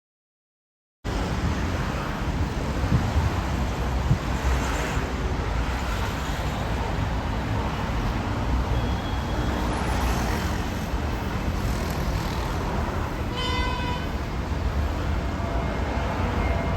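Steady low outdoor rumble of road traffic, cutting in abruptly about a second in, with one short car-horn toot about thirteen seconds in.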